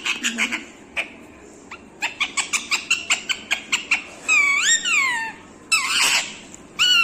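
Pet parrot calling: a quick run of sharp chirps, about five a second, then a few loud drawn-out screeches that rise and fall in pitch, and a harsh squawk.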